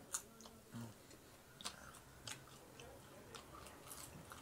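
A person chewing and biting popcorn chicken: faint, scattered crunches and wet mouth clicks.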